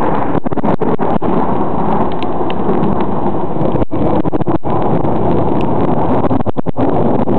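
Loud, continuous rumble of thunder with rain, the recording cutting out for an instant several times.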